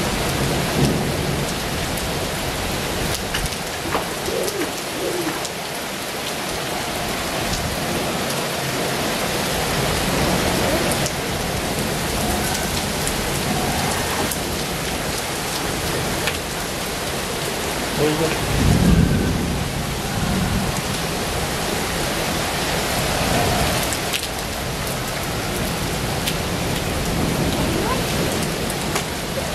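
Heavy rain pouring steadily, with a low rumble about two-thirds of the way through.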